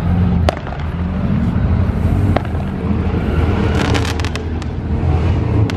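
Loud, steady rumble of car engines, with several sharp pops scattered through it and a quick cluster of them about four seconds in.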